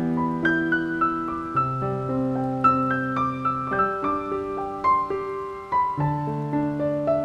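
Soft piano music: slow chords and single notes struck one after another, each ringing on.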